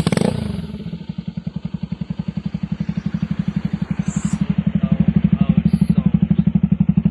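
Bajaj Pulsar 200NS single-cylinder engine firing up and settling into a steady, evenly pulsing idle through an aftermarket underbelly sports exhaust.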